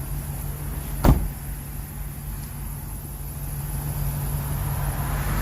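Ford E350 box truck engine idling with a steady low hum, heard from inside the cab, with a single sharp knock about a second in.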